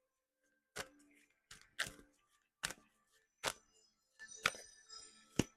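Tarot cards being handled on a table: about seven sharp taps and clicks, irregularly spaced, with a brief rustle of cards sliding about four seconds in.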